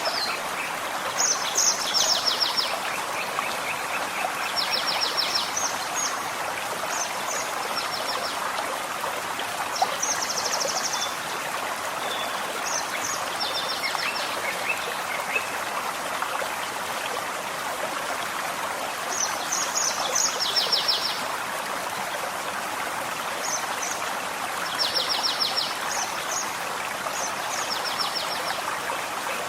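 Forest stream flowing steadily, with a small songbird singing short, high, rapid trills every few seconds over it.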